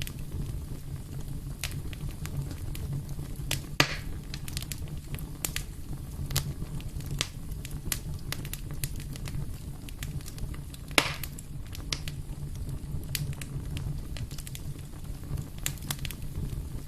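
Wood fire burning in a fireplace: a steady low rumble of flame with irregular crackles and snaps, and two louder pops about four and eleven seconds in.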